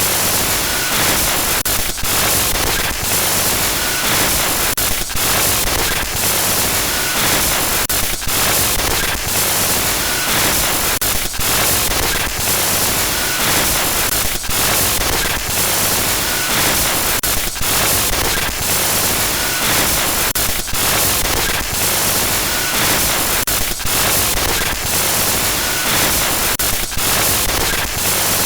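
Loud glitch static noise, a harsh hiss across the whole range, broken by frequent brief dropouts, with a faint short beep about every two seconds.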